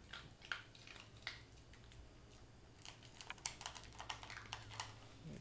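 Yorkshire Terrier puppy eating from his food dish: faint, irregular crisp clicks and crunches.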